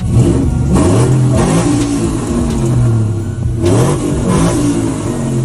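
A vehicle engine revving up twice, once about a second in and again near four seconds, its pitch rising each time over a steady running note.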